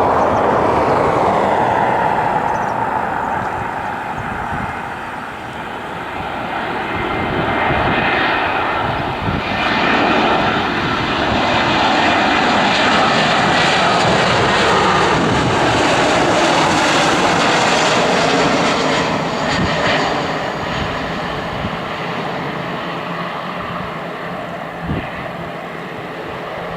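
Jet engines of an Airbus A320neo landing: a whine falls in pitch over the first couple of seconds as it passes, then a loud rush of engine noise swells in the middle and slowly eases off near the end.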